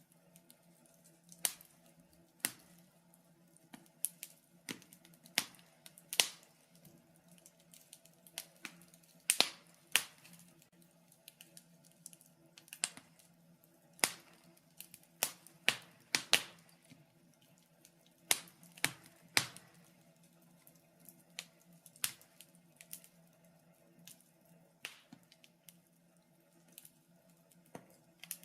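Wood fire crackling in a fireplace: irregular sharp snaps and pops, one every second or two, some in quick pairs.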